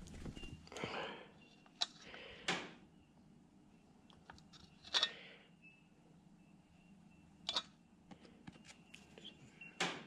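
Small metal parts being handled on a workbench during assembly: a handful of sharp, separate clicks and knocks a couple of seconds apart, with a short rustle about a second in.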